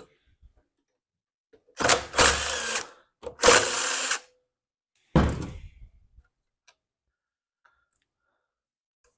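Handheld power drill/driver run in two bursts of about a second each, then a shorter burst that dies away, backing out 5/16 bolts on the mower's air filter assembly.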